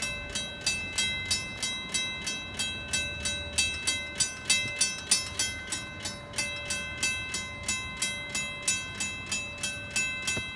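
Railroad level-crossing warning bell ringing steadily at about three to four strikes a second. The crossing has been activated with no train approaching, a malfunction that the crossing needs repair for.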